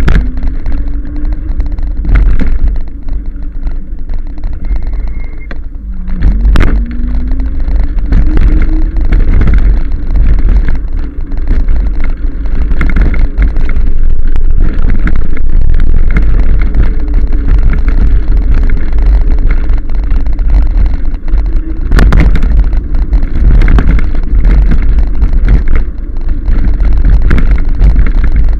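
Wind buffeting the microphone on a moving e-bike, a loud low rumble throughout, with a faint whine that rises in pitch a few times as the bike speeds up. There are two sharp knocks, one early and one near the middle.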